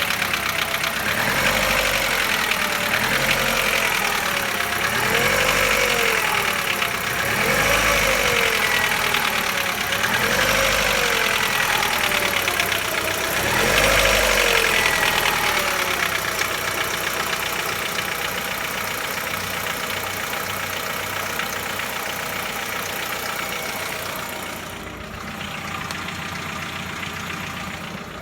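Chevrolet Lacetti 1.6 four-cylinder engine revved in short blips about every two and a half seconds, then settling back to idle for the second half. An engine knock runs through it, which the owner says is loud when the engine is cold and almost inaudible once it is warm.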